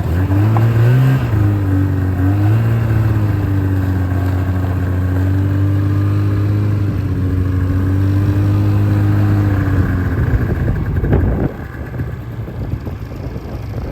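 Vehicle engine running steadily under way, with a brief rise and dip in pitch in the first few seconds. It fades out about ten seconds in.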